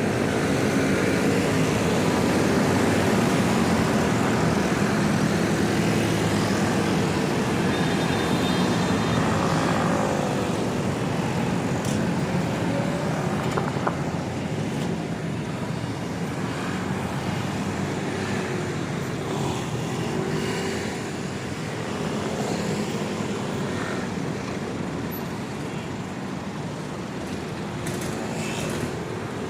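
City street traffic: vehicles running and passing, a steady wash of road noise with engine hum that fades slightly toward the end.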